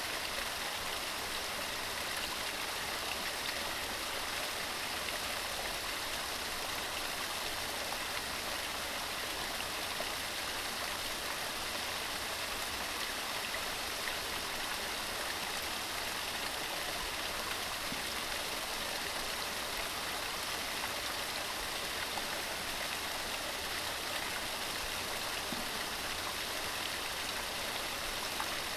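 Mountain stream running steadily over rocks: a constant rushing of water, strongest in the high range.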